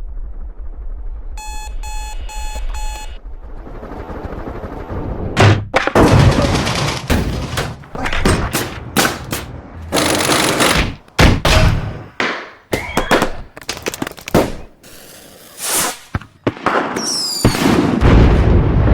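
Layered sound-design effects: four electronic alarm-clock beeps over a low rumble, then a swelling noise and a chaotic run of sudden loud hits and bursts, ending in a heavy low rumble.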